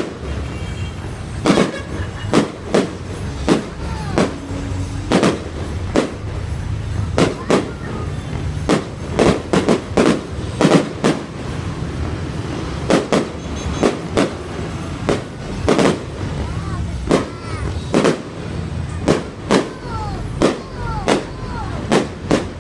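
Aerial fireworks going off in quick, uneven succession: about thirty sharp bangs, some with an echoing tail. Whistling rockets glide up and down in pitch between the bangs, over a steady low rumble.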